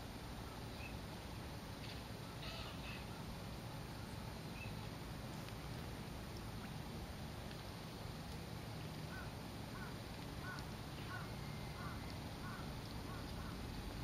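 Birds calling over a steady low rumble: a few faint high chirps in the first seconds, then, from about nine seconds in, a run of short repeated notes at about two a second.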